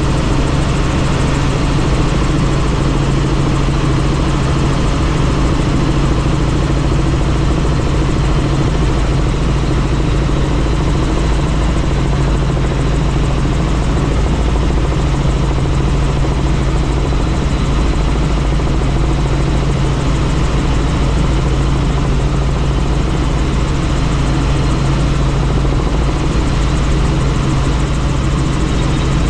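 Helicopter in flight with its doors off: a steady low drone from the rotor and engine over a constant rushing noise, unchanging throughout.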